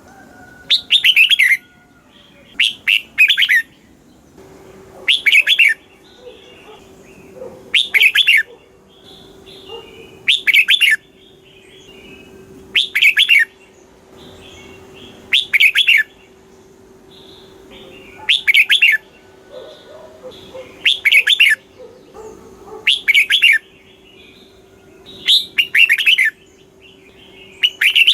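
Red-whiskered bulbul singing its short, loud, fluty song phrase over and over, one phrase roughly every two and a half seconds.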